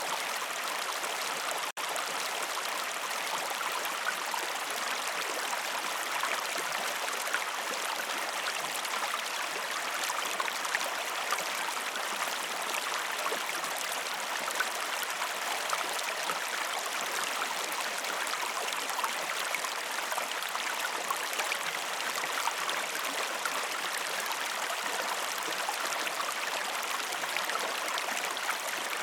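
River water flowing steadily, an even rush with small splashy ticks throughout, briefly cutting out about two seconds in.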